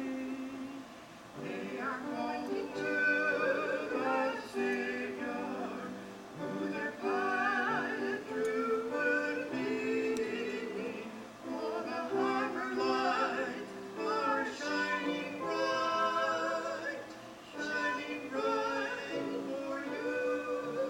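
Music: voices singing a melody in phrases, with instrumental accompaniment.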